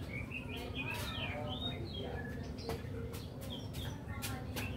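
Small birds chirping again and again, with several sharp clicks scattered through, the densest run of them near the end.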